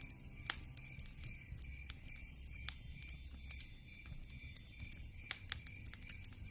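Campfire crackling, with irregular sharp pops over a low rumble of burning wood. A faint high chirp repeats steadily about three times a second behind it.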